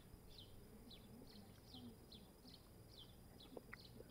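Faint, quick bird chirps: short high notes that slide downward, repeated about three times a second over quiet open-air ambience.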